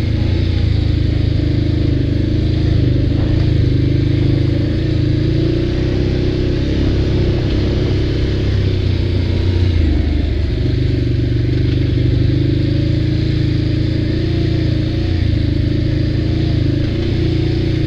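ATV engine running while riding, its pitch dipping and climbing again about ten seconds in as the throttle changes.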